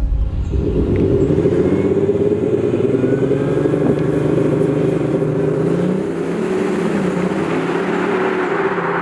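Audi S5 Sportback TDI's 3.0-litre V6 turbodiesel running under light throttle. Its pitch rises gently a couple of seconds in, then eases off about six seconds in.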